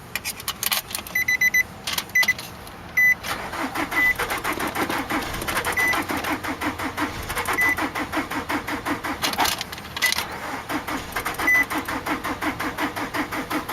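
Starter motor cranking the blown 2.5-litre four-cylinder of a 2003 Nissan Altima, which turns over in a steady rhythm for about ten seconds without firing, after a few clicks at the start. A short electronic chime beeps repeatedly throughout. The owner puts the failure to fire down to too little compression.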